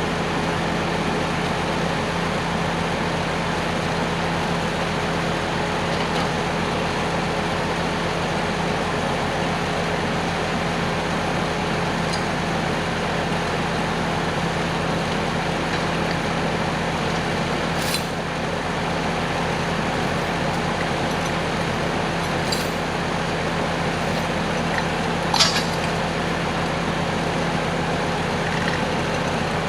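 An engine running steadily at a constant speed, with a few sharp metallic clinks, the loudest about three-quarters of the way through.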